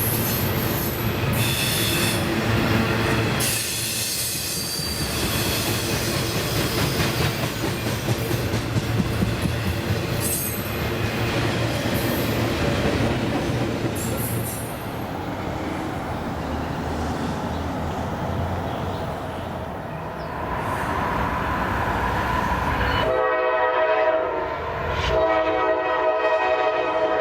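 CSX freight train rolling past: steady wheel-on-rail noise under a locomotive engine rumble, with a few brief high wheel squeals. Near the end a locomotive air horn sounds in two blasts.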